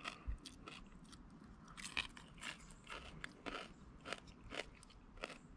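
A person chewing and crunching a bite of tempura-battered fried crappie tail, with a string of short crisp crunches about one or two a second.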